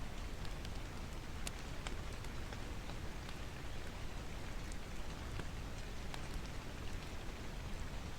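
Steady rain with sharp, irregular crackles over it, from a mixed rain-and-fireplace ambience track.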